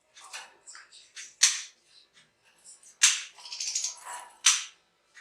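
Caged European goldfinches calling: four loud, sharp, high chirps about a second apart, with softer twittering between them and a longer twittering run in the second half.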